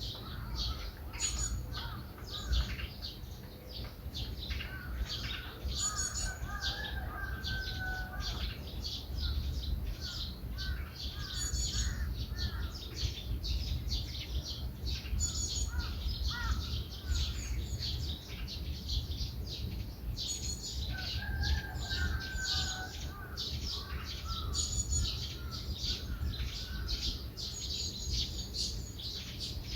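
Small birds chirping and twittering all through, with a lower warbling phrase twice, about six seconds in and again about twenty-one seconds in, over a steady low rumble.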